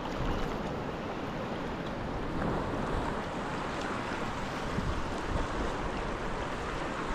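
Sea waves washing and sloshing around a sea kayak, with wind buffeting the microphone.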